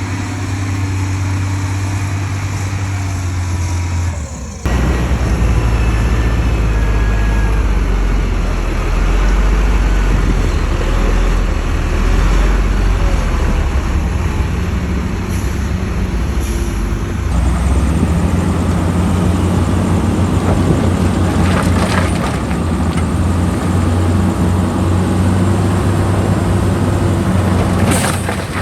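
Heavy diesel construction machinery running with a steady deep hum, changing abruptly about four and a half seconds in and again about seventeen seconds in.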